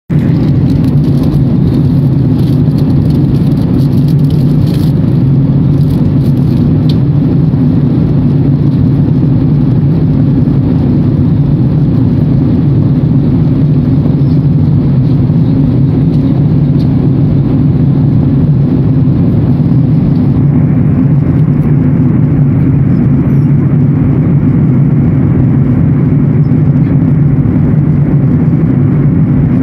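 Steady drone of a jet airliner's cabin in flight: engine and airflow noise, deep and even, with the higher hiss thinning out about two-thirds of the way through.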